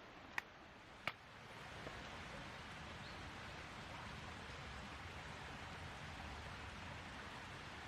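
Two sharp clicks in the first second or so, then a faint, steady hiss of outdoor noise.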